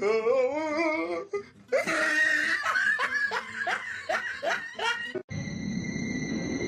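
A person laughing heartily in quick repeated bursts. About five seconds in it cuts off abruptly to a steady high whine over a low rumbling noise.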